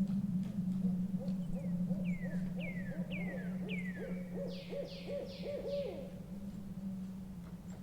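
An owl hooting in a run of short notes, while another bird gives four falling whistles and then four harsher notes, over a steady low hum.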